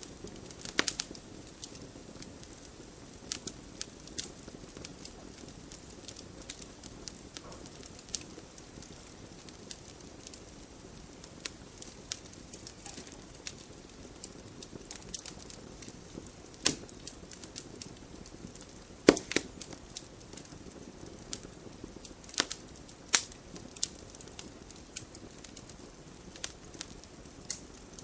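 Wood fire burning in a fireplace, crackling with irregular sharp pops over a soft steady hiss. The loudest pop comes about two-thirds of the way through.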